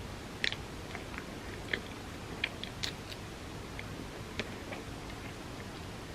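Close-up mouth sounds of an ice cream sandwich being chewed: soft, wet, irregular clicks and smacks, the loudest about half a second in and near three seconds, over a steady low hiss.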